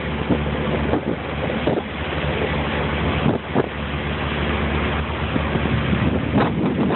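Motorboat engine running steadily under way, a low hum under water rushing past and wind buffeting the microphone in occasional gusts.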